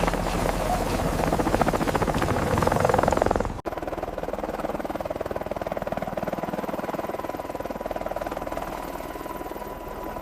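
Helicopter rotor beating with engine noise, loud and dense. About three and a half seconds in it cuts off abruptly to a quieter, steadier rotor sound.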